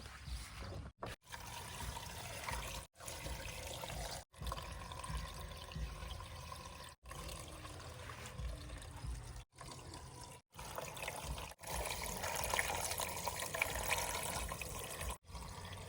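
Heavy machinery engine rumble under a steady rushing, pouring noise, broken by several abrupt short gaps.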